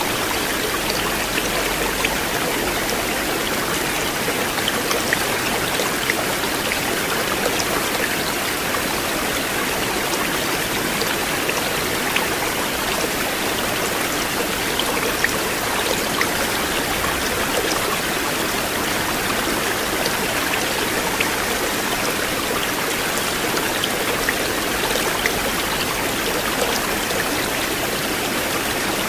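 River water flowing: a steady, even rush of a stream with scattered small splashes and drips.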